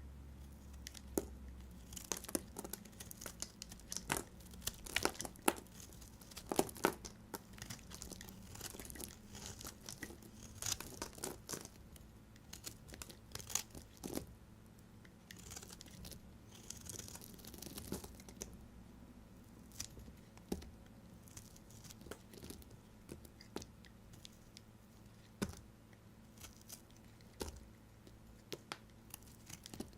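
A knife cutting through bars of soap: a run of crisp crackles and crunches, thickest in the first half and sparser after.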